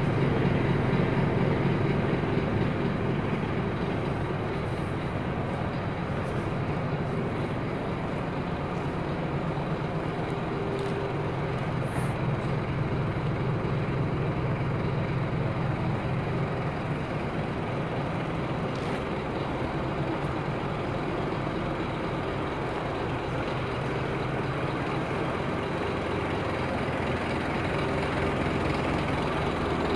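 Scania P230 truck's diesel engine running steadily at an even, low speed.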